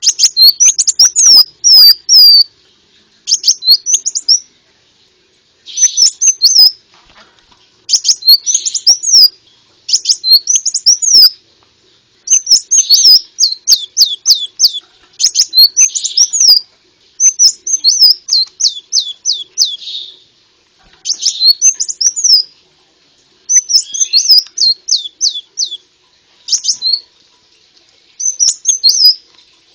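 Konin (brown-throated sunbird) song, as played to lure birds: repeated phrases of rapid, high chirps and trills, each about one to two seconds long, with short pauses between.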